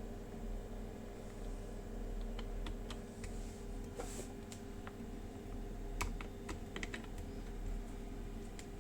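Scattered light clicks and taps of small parts being handled while a motor is fitted into an airsoft gun, over a steady low hum.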